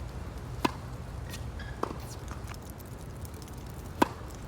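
Tennis balls struck by rackets in a rally: three sharp pops with a short ring, the last and loudest about four seconds in, over a steady low rumble of wind on the microphone.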